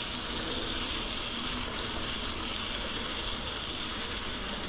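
Steady rolling hiss of an electric mountain bike's tyres on a damp gravel trail.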